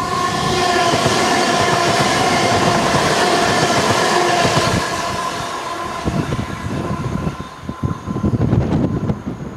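Electric multiple unit passenger train passing close at speed: a loud rush of wheels on rail with a whine that falls slightly in pitch. After about five seconds it eases off as the train moves away, leaving a run of uneven wheel clicks and thumps.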